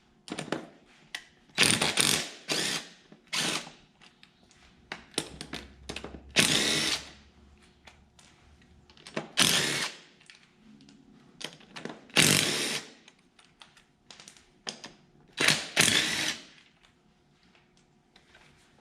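Power tool running in repeated bursts of about a second each, removing the 5/8-inch bolts that hold a garden tractor's wheel on.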